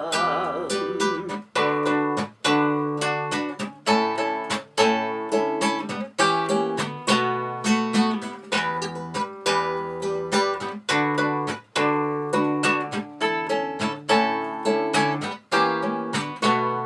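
Acoustic guitar playing an instrumental interlude between verses, a steady run of picked notes and chords several a second. The singer's last held note fades out just after the start.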